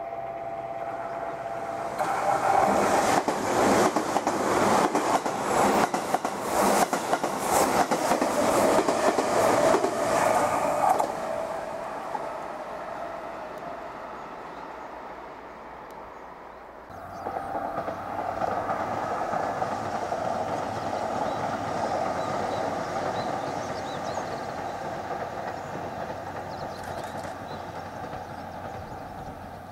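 Limited express Kamome electric train passing a station platform, its wheels clicking rhythmically over the rail joints for several seconds before the sound fades away. After a cut, an electric train is heard running steadily along the line.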